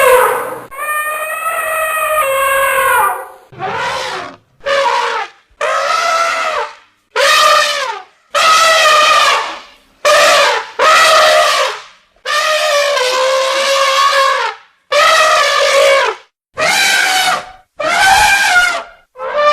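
A series of loud, pitched animal calls, about a dozen of them, each lasting up to a second and a half with short gaps between, with a brassy, trumpet-like tone.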